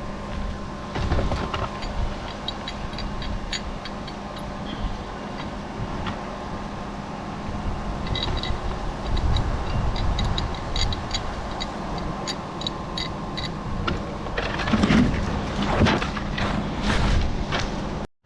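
Crane's engine running steadily at idle, with scattered light ticks and a couple of louder rough swells near the end.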